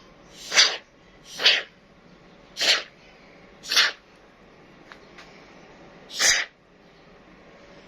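Five short hissing bursts, each about a third of a second long, swelling and then cutting off sharply, spaced irregularly about a second apart with a longer gap before the last.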